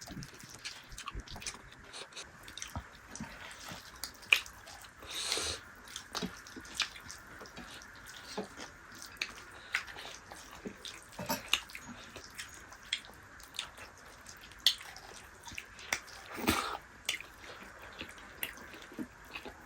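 Close-up eating sounds of a dal bhat meal with dried yak meat: scattered wet mouth clicks and smacks of chewing, with an occasional louder click.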